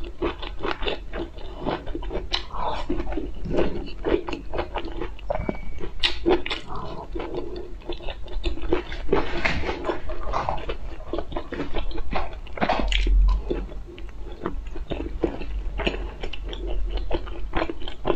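Close-miked chewing and wet mouth sounds of someone eating, with a constant run of small clicks and smacks.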